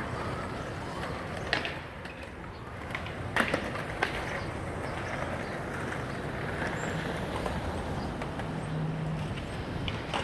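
Steady city street traffic noise, with a sharp knock about a second and a half in and a couple more around three and a half to four seconds in.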